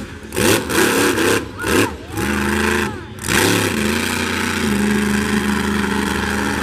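The Buckshot monster truck's engine revving hard in repeated swells and dips about once a second, then held at a steady high pitch for the second half.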